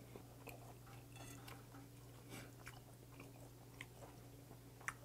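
Faint close-miked chewing of raw pen shell adductor slices, with soft scattered mouth clicks and a sharper click near the end, over a steady low hum.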